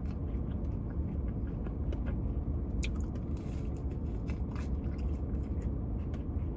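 Biting into and chewing a chicken sandwich topped with coleslaw and fried wonton strips: scattered crisp crunches over a steady low rumble.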